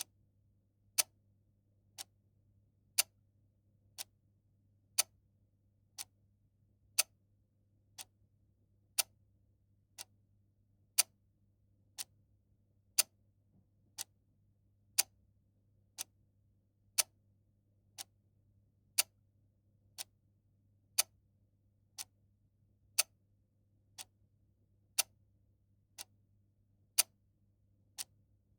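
Clock ticking once a second, a steady tick-tock in which a loud tick and a softer tock take turns.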